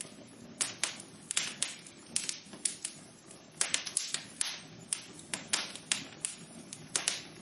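Wood fire in a fireplace crackling: irregular sharp pops and snaps over a steady low hiss of burning, with a denser cluster of pops in the middle.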